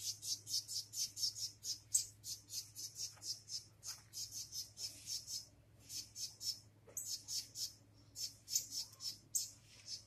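Birds calling in a rapid series of short, high, harsh chirps, about four or five a second, in runs broken by brief pauses.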